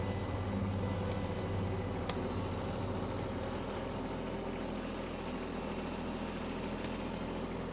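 Kubota B2301 compact tractor's three-cylinder diesel engine running steadily at idle.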